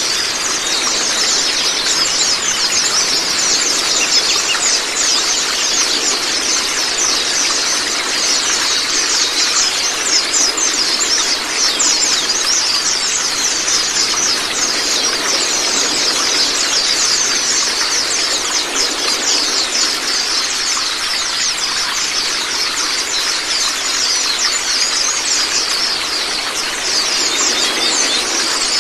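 A flock of Zosterops white-eyes chattering and trilling in a dense, unbroken stream of rapid high-pitched notes, over a steady rush of running water.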